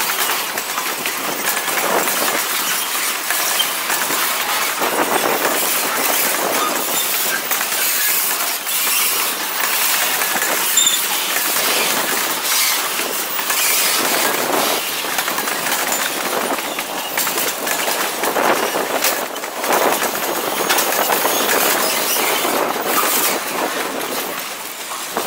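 Loaded fuel tank cars of a freight train rolling past close by: steel wheels rumbling on the rails with a steady stream of irregular knocks and clatters. The noise eases a little near the end.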